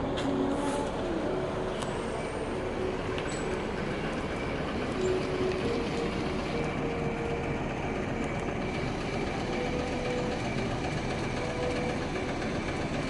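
JR Kyushu 817 series electric train running: a steady rumble of wheels on the track, with a few faint steady tones above it.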